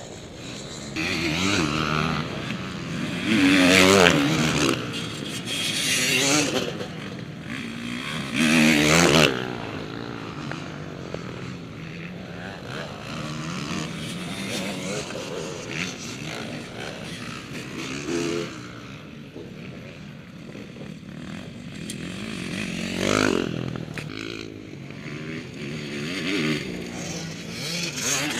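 Motocross bikes racing past with their engines revving hard and changing pitch through the gears. There are several loud passes, the loudest about four and nine seconds in and another near twenty-three seconds.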